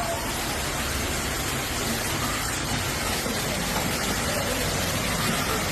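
Hailstorm downpour: a steady, dense rush of hail and rain falling.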